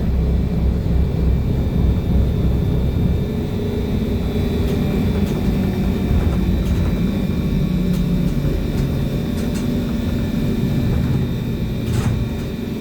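Interior of a BKM-321 trolleybus under way: steady low road rumble with a constant high whine from the electric traction drive, and a few faint clicks and rattles.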